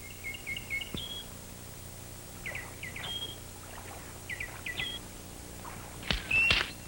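Quiet forest ambience with a bird singing short chirping phrases about every two seconds. Near the end come two sharp snaps with a louder call.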